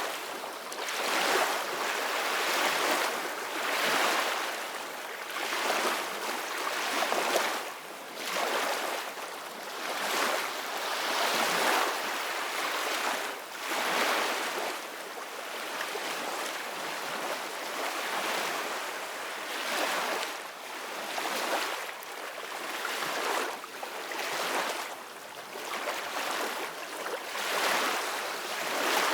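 Ocean surf washing onto a beach: a steady rush of breaking water that swells and eases every couple of seconds.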